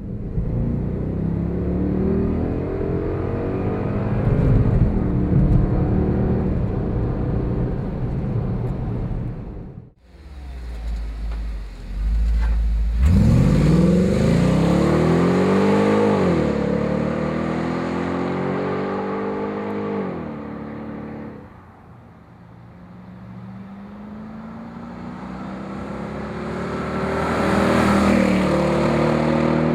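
VW Touareg's V8 engine through a Fabspeed aftermarket exhaust, under load and changing revs. About halfway through the revs climb sharply, then ease off and hold, and near the end they build slowly again before dropping away.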